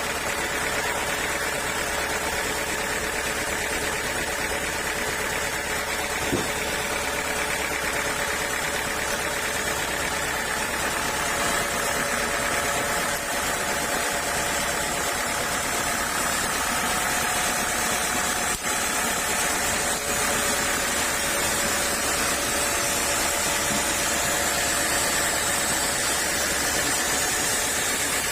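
Sawmill machinery running steadily, a constant mechanical drone with several steady tones, with one short click about six seconds in.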